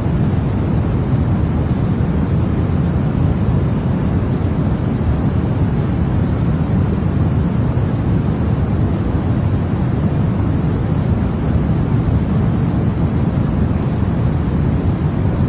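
Continuous baby-sleep white noise that holds perfectly steady, with no changes. It sounds deep and bass-heavy, closer to a dull rush than a bright hiss.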